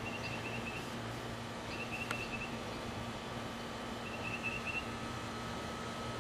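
A small bird chirping in three short runs of quick, high chirps about two seconds apart. A steady low hum runs under it, and there is a single sharp click about two seconds in.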